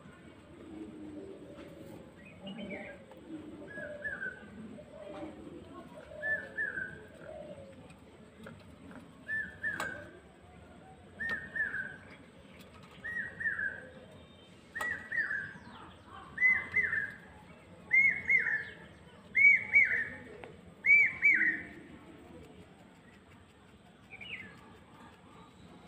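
A bird repeating a short whistled call of two or three arched notes about every one and a half seconds. The call grows steadily louder and slightly higher, then stops about 22 seconds in.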